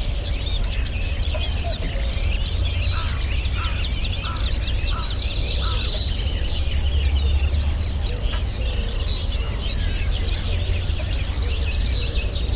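Morning chorus of several birds chirping and trilling together, with a run of about six short, lower repeated calls a few seconds in, over a steady low rumble.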